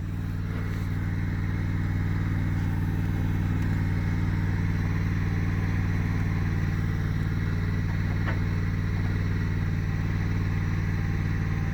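Riding lawnmower's engine running at a steady speed, a constant low hum.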